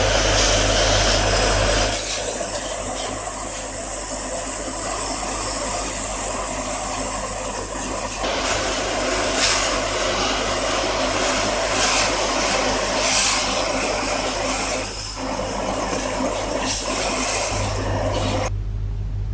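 A machine running steadily with a loud hiss over a low hum. The hum is strongest in the first two seconds and again near the end, and the sound drops away abruptly at the end.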